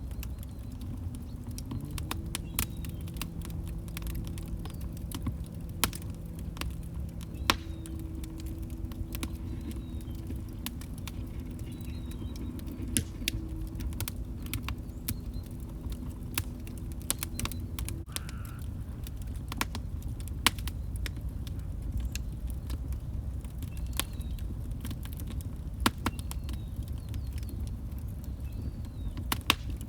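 Log fire crackling: a steady low rumble of flames with frequent sharp crackles and a few louder pops at irregular times. Faint low steady tones sound under the crackle for the first half and stop a little past the middle.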